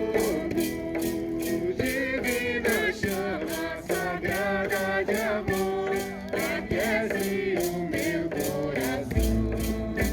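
Hymn sung with voices over guitar, maracas shaken in a steady beat. A deep bass enters near the end.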